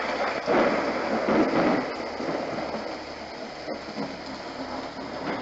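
Homedics Sound Spa portable sound machine playing its rain setting through its small speaker: a steady rain-like hiss with thunder in it, loudest in the first two seconds, then easing to a lower, even rain sound.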